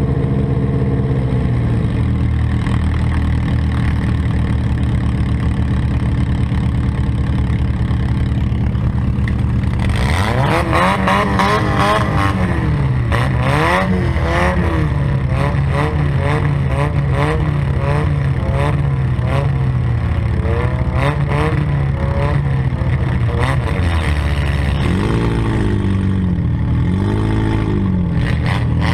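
Demolition derby car engine idling steadily, then from about ten seconds in revving hard up and down again and again, with rattling and knocks of metal over it.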